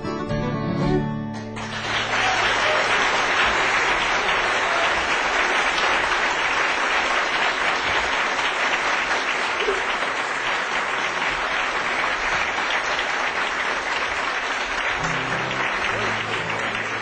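Acoustic guitar music ending about a second and a half in, followed by an audience applauding steadily.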